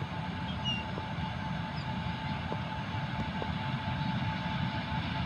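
Indian Railways electric freight locomotive hauling a goods train, running with a steady low rumble.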